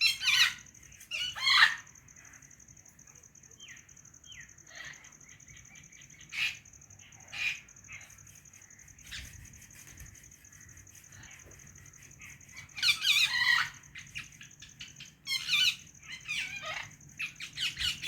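A white Indian ringneck parrot chirping and squawking in short, shrill bursts: two loud clusters right at the start, scattered quieter chirps through the middle, then a run of loud bursts from about two-thirds of the way in.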